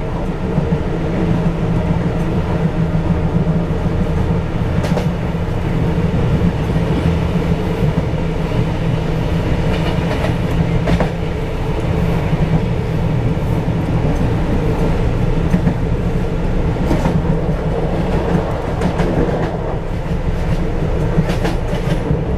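KRL electric commuter train running at speed, heard from the cab: a steady rumble of wheels on rails with a few faint clacks of the wheels over the track.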